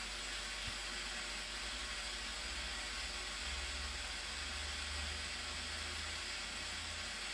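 Steady rushing noise of the Blue Nile Falls' water, even and unbroken, with a low rumble underneath from about a second and a half in until near the end.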